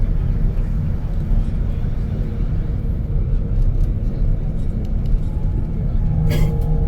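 Tour bus driving along the road, heard from inside the cabin: a steady low engine and road rumble with a faint hum, and a brief hiss near the end.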